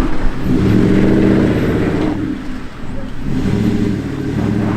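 Off-road vehicle's engine revving in two long pulls, easing off about two seconds in before revving again.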